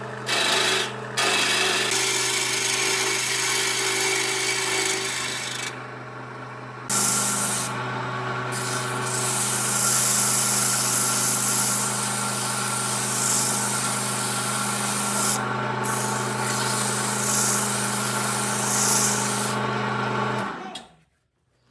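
An electric power tool sanding wood: a steady motor hum under a coarse rasping of abrasive against the wood. The rasping eases off briefly about six seconds in, then comes back harder. The tool shuts off near the end.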